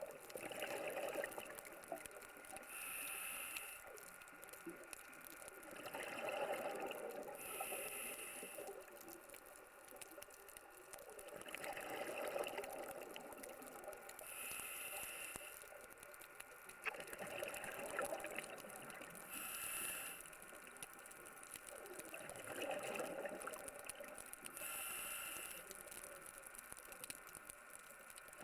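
Scuba diver breathing through a regulator underwater: a short hiss on each inhale, then a longer gurgle of exhaled bubbles, about every five to six seconds.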